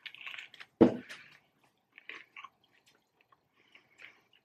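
Biting into a crispy fried chicken sandwich, a Popeyes spicy one, with crackling at the start and one loud sharp crunch just under a second in, then soft crunchy chewing. The crunch comes from the very crispy fried chicken breading.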